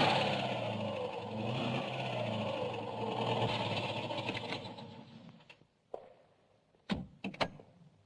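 A car engine running hard, fading away over about five seconds, followed by a few sharp knocks near the end.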